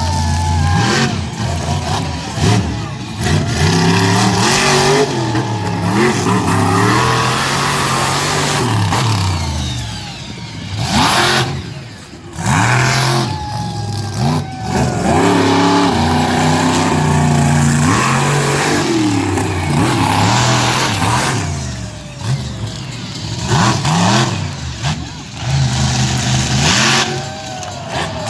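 Monster truck engine revving hard, its pitch climbing and dropping again and again as the throttle is worked, with a couple of brief lulls.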